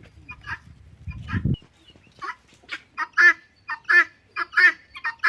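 Guinea fowl calling over and over in harsh, evenly spaced notes about one and a half a second, growing loud from about three seconds in. A low rumble sits under the first second and a half.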